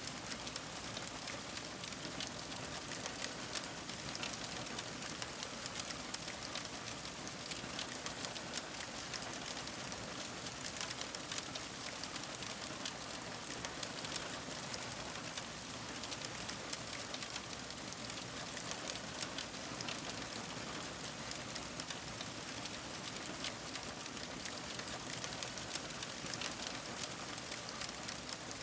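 Fire crackling steadily: a dense run of small, irregular crackles and pops over a soft hiss.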